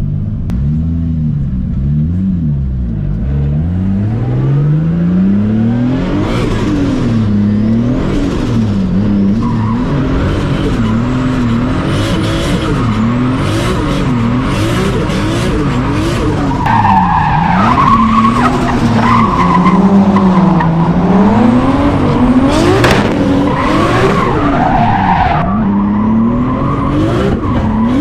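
Turbocharged 2JZ straight-six in a Nissan S14 drift car, revving up and dropping back over and over every second or two as it is driven sideways. From about six seconds in, tyres squeal and skid loudly over the engine.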